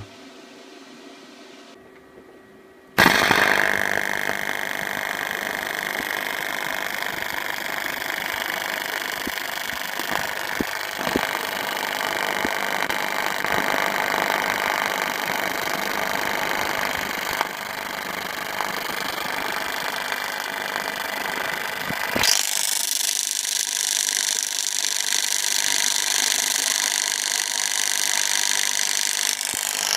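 AC TIG welding arc buzzing on aluminium, striking suddenly about three seconds in and holding a steady, harsh buzz. About 22 seconds in the buzz shifts to a higher, brighter tone and carries on.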